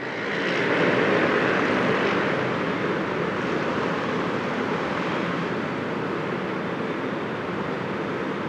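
Jet airliner's engines as it passes on approach to land: a steady rushing jet noise that swells to its loudest about a second in, then slowly fades.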